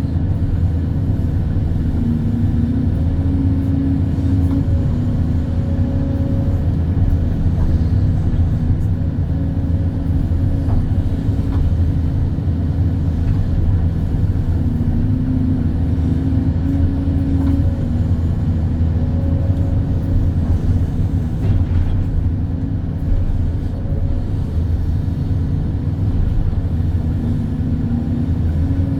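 Excavator's diesel engine running steadily under load while digging, its pitch shifting up and down every few seconds as the hydraulics work the boom and bucket.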